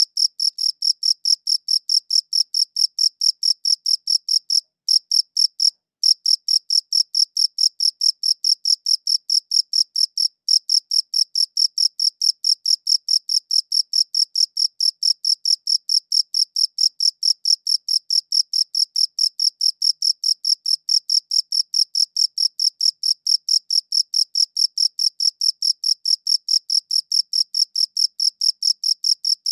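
Cricket chirping: a steady run of short, high-pitched chirps, about four or five a second, with a pause of about a second near five seconds in.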